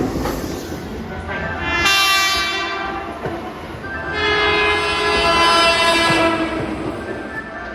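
Keihan electric train sounding its horn: a shorter blast about two seconds in, then a longer blast held for about two and a half seconds, over the rumble of the train.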